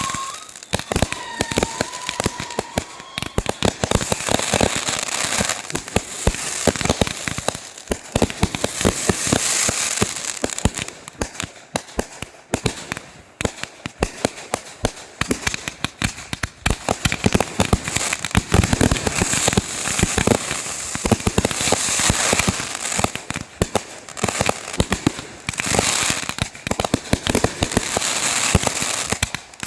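Consumer fireworks going off in rapid succession: dense crackling pops and bangs with hissing, swelling and fading in waves.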